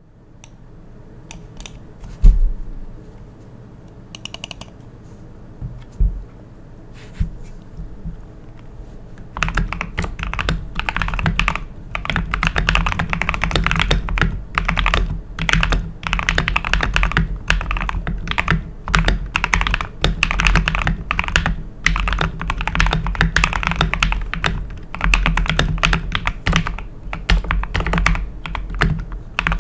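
Modified NZXT Function mechanical keyboard with lubed linear switches being typed on: a few scattered keystrokes and one loud knock early, then fast, continuous typing from about nine seconds in.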